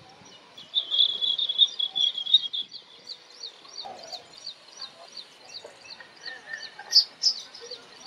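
Small birds chirping: a dense run of rapid high twittering about a second in, then a steady series of short, high, repeated notes, about two a second, a few louder ones near the end.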